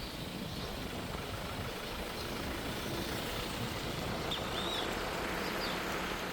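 Steady outdoor background hiss with a few short bird chirps about four and a half seconds in.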